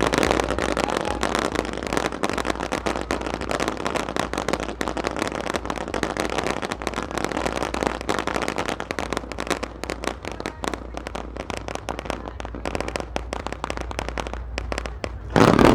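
Fireworks crackling densely and without a break, many sharp pops overlapping, with one louder burst near the end.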